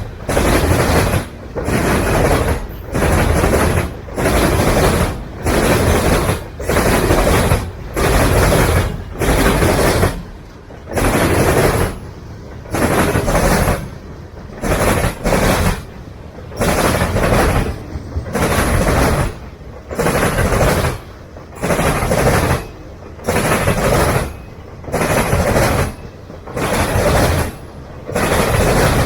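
A freight train's cars rolling past, wheel-and-rail noise rising as each set of wheel trucks goes by and dipping over the car bodies, about once every second and a bit.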